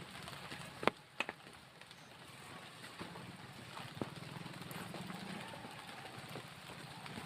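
Steady rain noise with a few sharp taps or knocks, the loudest two close together about a second in.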